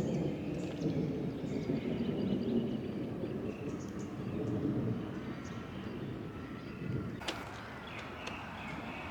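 Small birds chirping over a low rumble that fades over the first few seconds, with one sharp click about seven seconds in.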